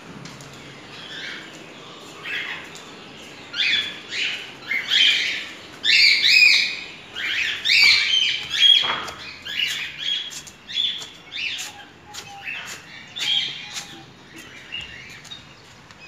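Birds chirping: a run of short, high calls, one or two a second, loudest near the middle and thinning out near the end.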